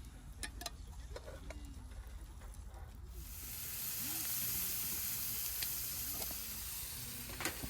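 Scattered light clicks, then about three seconds in a pan starts sizzling as food goes into hot oil over a campfire, settling into a steady frying hiss.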